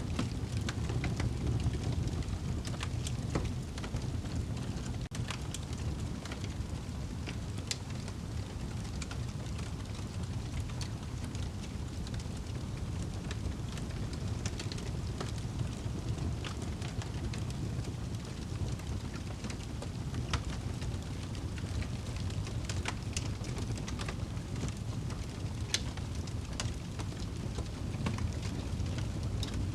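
Wood fire burning in a fireplace: a steady low rushing of the flames with many scattered sharp crackles and pops.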